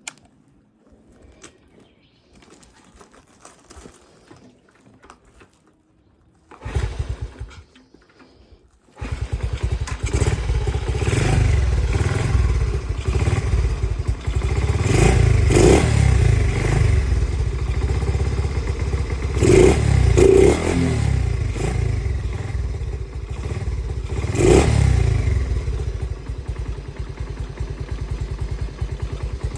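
Honda Gorilla's small single-cylinder four-stroke engine being started after sitting for several days: a short burst about seven seconds in, then it catches about nine seconds in and keeps running. It is revved up a few times, around the middle, and then settles back to a steady idle.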